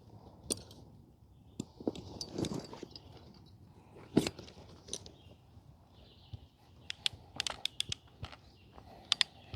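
Camera tripod being taken out and handled: scattered clicks, rattles and knocks, with a quick run of clicks between about seven and nine seconds in.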